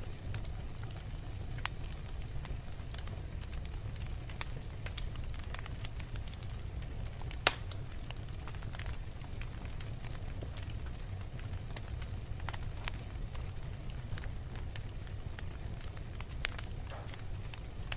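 Wood logs burning in a fireplace: a steady low rumble of flames with scattered crackles and small pops, and one sharp, much louder pop about seven and a half seconds in.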